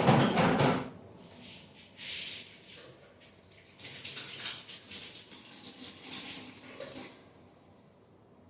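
Water splashing and pouring in uneven bursts, after a loud clatter in the first second; it stops about seven seconds in.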